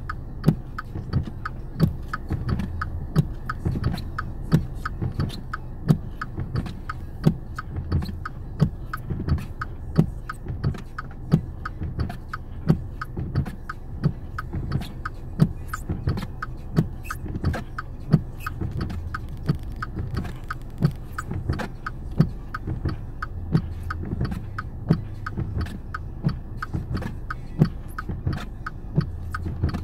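Car driving slowly on snow, heard from inside the cabin: a steady low engine and road rumble with frequent irregular clicks and rattles, a few a second.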